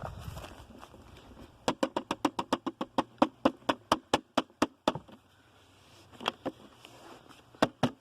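Hoover UH71250's plastic dust bin being rapped repeatedly to knock the dirt out while it is emptied: a fast run of sharp plastic knocks, about seven a second for some three seconds, then a few more near the end.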